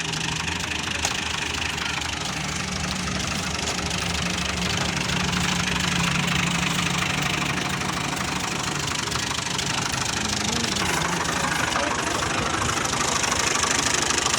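Ghazi tractor's diesel engine running steadily while driving a thresher, with the steady noise of the threshing machinery over it.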